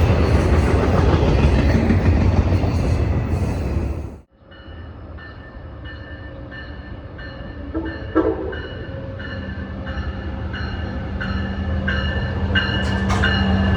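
A train rumbling past close by, loud and low, cut off suddenly about four seconds in. Then an approaching train, growing louder, with a bell ringing steadily at about three strikes a second and a steady low engine drone joining about halfway through.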